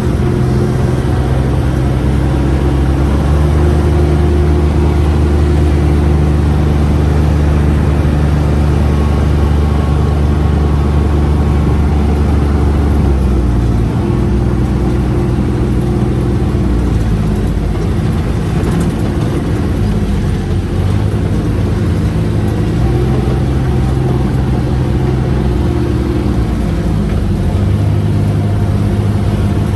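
UTV engine running under throttle with a steady drone, its pitch stepping down about halfway through and shifting again later. The pedal is held down hard but the machine is slow to gain speed, a sluggish, delayed throttle response.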